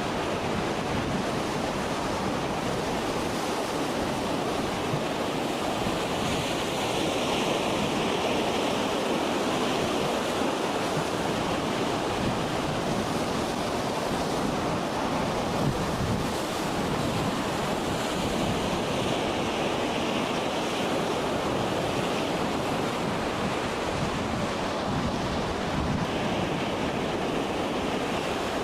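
Steady noise of storm wind and heavy breaking seas, with wind buffeting the microphone.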